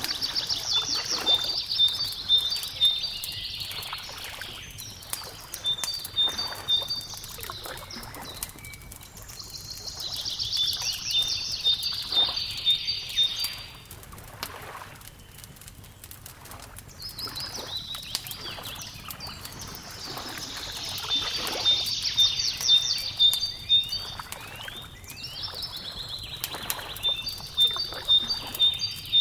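A songbird singing short phrases, each a fast trill and a few clear notes, repeated every few seconds. Underneath runs the frequent crackle and pop of a wood fire, with a faint wash of lapping water.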